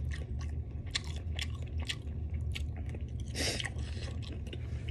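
Close-miked chewing of crispy fried food: a person biting and crunching with his mouth closed, a run of sharp crackles throughout.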